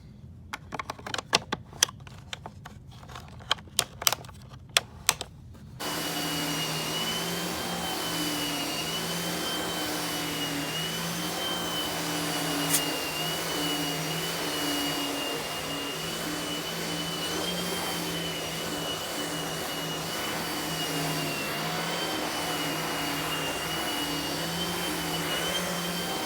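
Several sharp clicks and knocks, then about six seconds in a Miele S147 canister vacuum with a Vacuflo TurboCat air-driven turbo brush head switches on and runs steadily. It makes a high, slightly wavering whine over a low hum.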